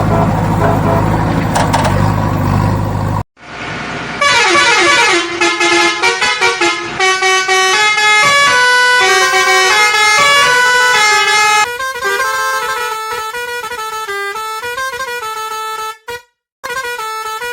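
Cartoon vehicle sound effects: a vehicle sound with steady horn-like tones for about three seconds, which cuts off suddenly, then a tune of stepped, melodic horn-like notes that runs on with a couple of short breaks near the end.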